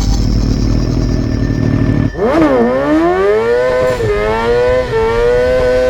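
Motorcycle engine running with a low rumble, then revving up and accelerating from about two seconds in. Its pitch dips briefly near the fourth second, then holds a high steady note.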